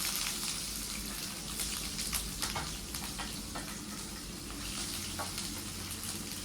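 Chopped ginger and garlic sizzling in hot oil in a pan, a steady hiss that slowly eases, with scattered clicks of the spatula stirring.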